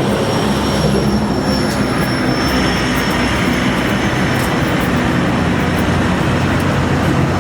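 Steady, loud vehicle noise: an engine's low hum under constant road rumble.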